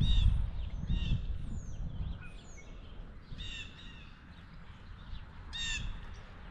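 Blue jays calling: one call at the start, one about a second in, a quick pair past the halfway mark and one more near the end. A low rumble is loudest at the start and fades over the first couple of seconds.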